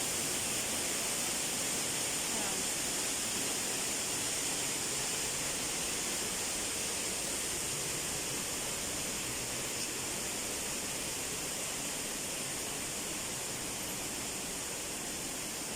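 Steady rushing of falling water from a waterfall, slowly growing fainter.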